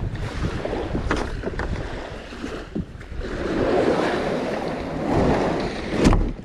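Wind buffeting the microphone over water noise, an uneven rumble that swells in the middle, with a few light knocks.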